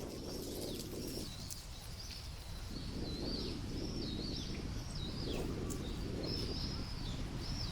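Birds calling over and over with short, wavering high-pitched calls, over a low rumble of gusting wind on the microphone.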